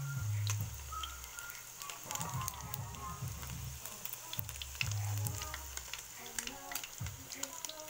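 Chicken meatballs deep-frying in hot oil: a steady sizzle with frequent small crackles and pops. Background music with low notes plays underneath.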